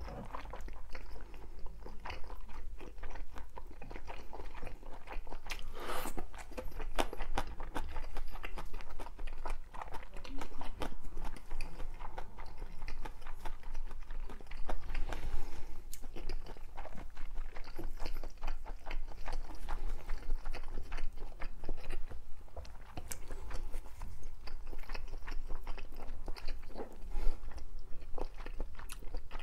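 A person chewing a mouthful of food close to the microphone, with dense, irregular small crunches and clicks throughout.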